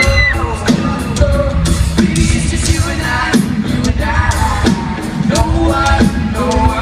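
Live pop-rock band playing with a lead vocalist singing held, gliding notes over a steady beat.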